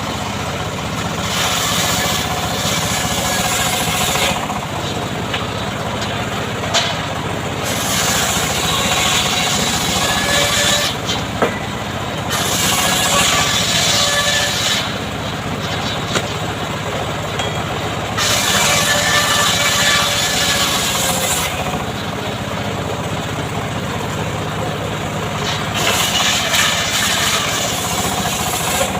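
Homemade chainsaw running steadily, its pitch rising and falling every few seconds.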